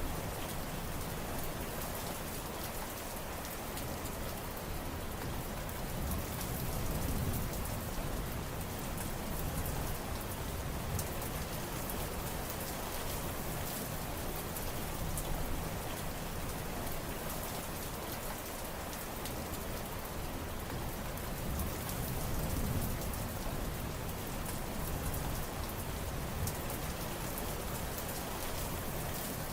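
Steady rain falling and pattering on surfaces, a dense hiss with fine individual drop ticks, swelling slightly in the low end now and then.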